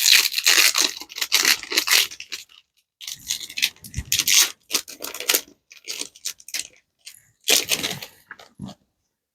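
Foil trading-card booster pack wrapper being torn open and crinkled by hand, in irregular crackling bursts with short pauses.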